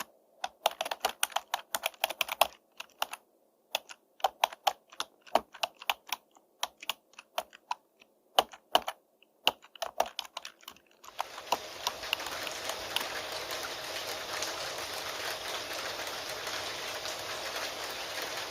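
Computer keyboard typing: quick runs of key clicks with short pauses. About eleven seconds in, the typing stops and steady rain takes over.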